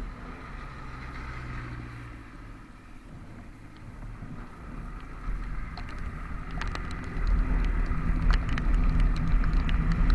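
Vehicle on the move in the rain: a low engine and road rumble that grows louder from about five seconds in, as it picks up speed. Scattered sharp ticks of raindrops come in from about six seconds in.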